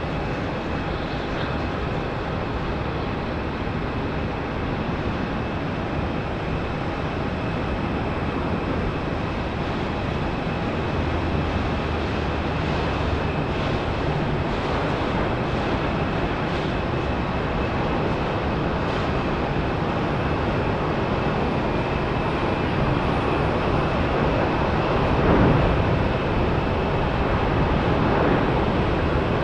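Airbus A350 landing, its Rolls-Royce Trent XWB jet engines giving a steady rushing noise with a thin steady whine on top. The noise grows slowly louder as the aircraft comes closer.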